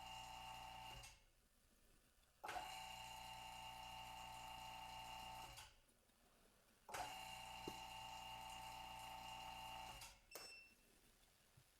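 Phone-screen OCA laminating machine running: a faint, steady electric hum with a fixed whine, cutting in and out in stretches of about three seconds with short gaps between them.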